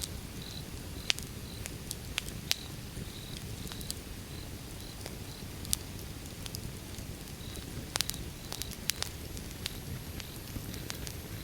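Wood fire burning: a steady low rumble of flames with irregular sharp crackles and pops from the burning logs, several coming in quick succession about eight to nine seconds in.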